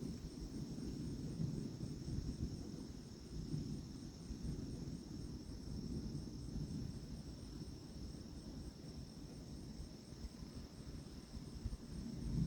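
Insects trilling, a steady high drone with a fast, even pulsing, over a low rumbling noise that swells and fades.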